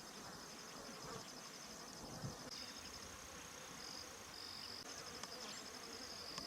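Faint insect trilling: a steady, rapidly pulsing high-pitched trill that falters briefly about four seconds in.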